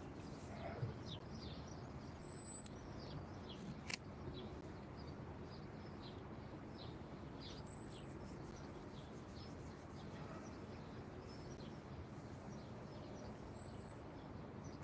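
Small birds chirping repeatedly, short quick notes scattered through the whole stretch, over steady background noise, with a thin high whistle heard three times about five to six seconds apart.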